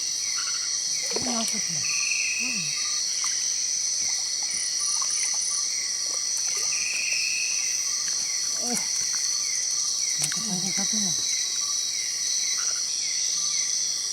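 Rainforest insect chorus: a steady, high-pitched drone with a repeating chirp about twice a second.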